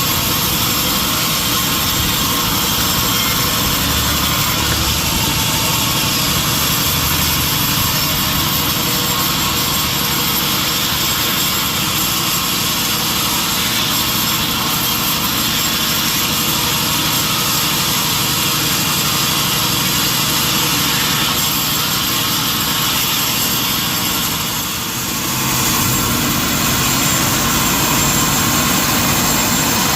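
Sawmill machinery running with a loud, steady mechanical noise, dipping briefly about 25 seconds in.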